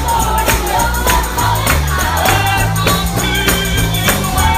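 Live gospel singing by a group of voices, with a tambourine struck in a steady rhythm and low bass notes underneath.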